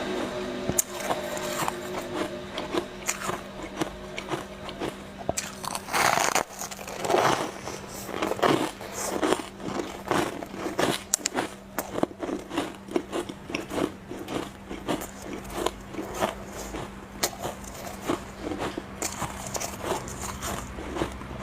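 A person biting and chewing refrozen shaved ice. There is a loud crunching bite about six seconds in, then steady crunchy chewing at roughly two crunches a second.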